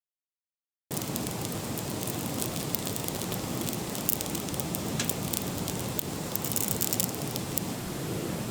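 Wood campfire crackling, with scattered sharp pops and snaps over a steady hiss; it starts abruptly about a second in, after dead silence.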